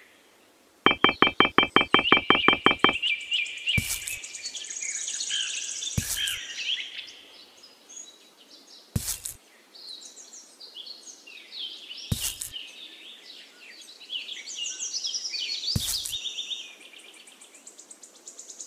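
Birds chirping and trilling, opening with a fast rattling run of sharp notes about a second in. A single sharp knock comes every three seconds or so.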